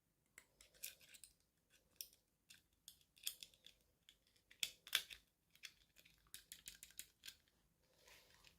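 Toy packaging being opened and handled by hand: an irregular string of short, crisp clicks, snips and crinkles, quiet overall.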